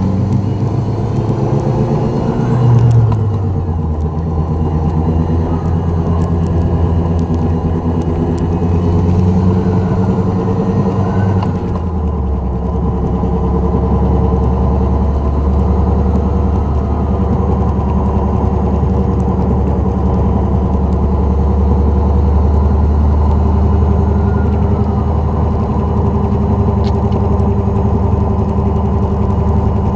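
2004 Dodge Neon SRT-4 on the move, with a steady low drone under the engine and road noise. The drone is the sign of a bad wheel bearing. The pitch shifts a few seconds in and again about twelve seconds in.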